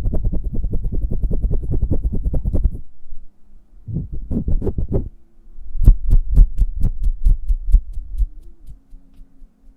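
Hands making quick pats and flutters close to the microphone, giving soft thumps: a fast run of about ten a second that stops just before three seconds in, a short burst around four to five seconds, then a louder, slower run of about five a second that trails off near eight seconds.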